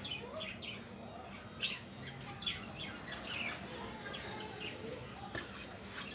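Small birds chirping in short, scattered calls, over a soft rustle of cotton cloth and lace trim being handled, with a light knock about one and a half seconds in.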